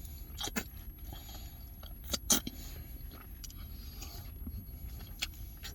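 A person chewing a mouthful of oxtail poutine, with a few sharp clicks about half a second in, around two seconds in and near the end.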